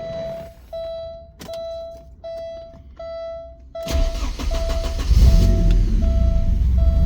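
Porsche 944 warning chime pulsing about once every 0.7 seconds, then about four seconds in the 2.5-litre fuel-injected four-cylinder cranks and starts, settling into a steady idle under the ongoing chime.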